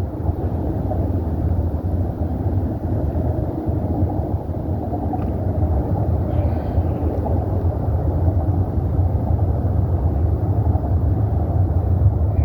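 Steady low rumble of freeway traffic.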